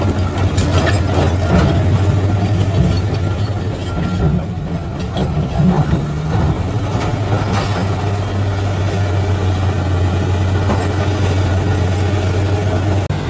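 Bulldozer's diesel engine running with a steady low drone, working harder for a few seconds in the first half, with scattered knocks over it.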